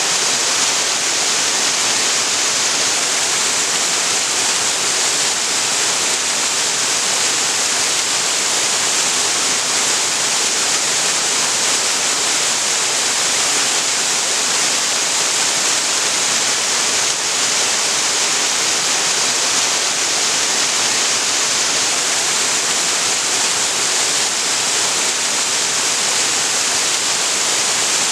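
Waterfall with water pouring and splashing, a loud, steady hiss with no change.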